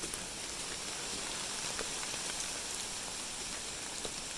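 Steady rain falling, with a few sharper individual drops now and then.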